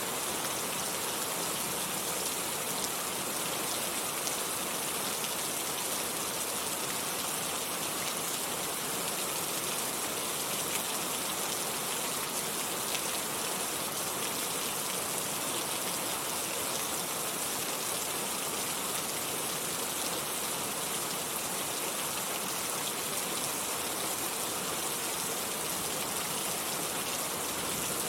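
Steady rain falling: an even, unbroken hiss of many fine drops, with no thunder.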